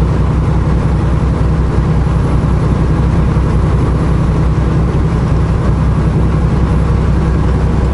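Semi truck's diesel engine droning steadily while driving, heard inside the cab along with road noise. The low drone holds even throughout with no change in pitch.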